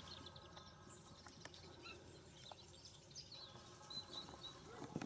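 Near silence: faint outdoor ambience with a few distant bird chirps, clearest about four seconds in.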